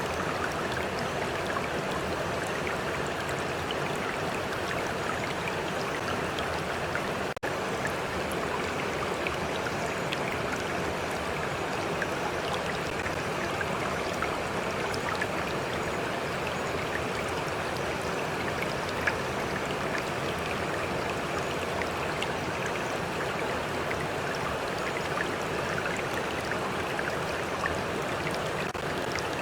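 Stream water flowing in a steady, even rush, with a brief drop-out about seven seconds in.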